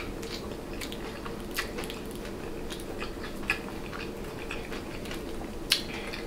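Close-miked chewing and biting of a seafood jalapeño popper egg roll: a run of short wet clicks and smacks, a few louder ones near the start, midway and near the end, over a steady low hum.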